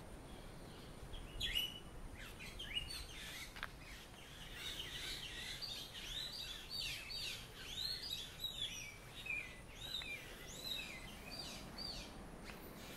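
Birds chirping, many short notes that rise and fall in pitch, coming thick and overlapping through the middle of the stretch, over a low steady background noise.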